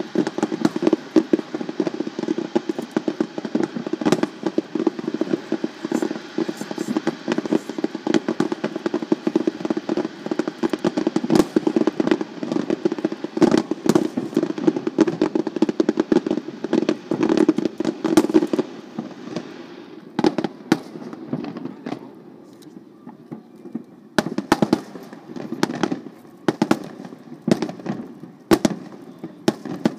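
Fireworks display: aerial shells bursting with a dense, continuous crackle and many sharp bangs. About two-thirds of the way through, the crackle stops and separate bangs and pops follow.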